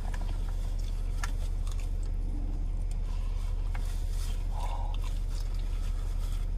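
Two people eating in a car: soft chewing and biting with scattered small clicks and scrapes, over the steady low rumble of the car's engine left running to heat the cabin.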